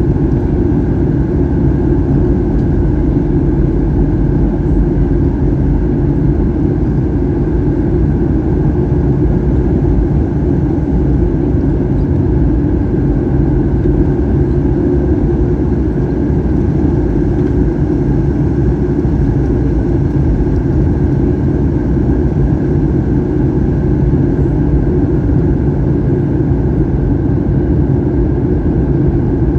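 Steady, loud cabin noise inside a Boeing 737-800 in flight: the drone of its CFM56 turbofan engines and the rush of air past the fuselage, with a few steady tones over a deep rumble and no change in level.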